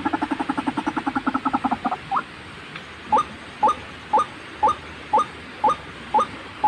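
White-breasted waterhen (ruak-ruak) calling: a fast chattering run of about ten notes a second, then, from about two seconds in, single short rising notes repeated about twice a second.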